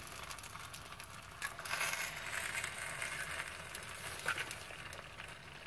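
Eggs sizzling and crackling in a skillet on a stovetop, with a couple of light clicks.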